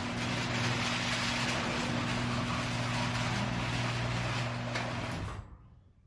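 Genie IntelliCode 4800 garage door opener running the door on its newly replaced capacitor: a steady motor hum over the whir of the drive, which winds down and stops about five seconds in.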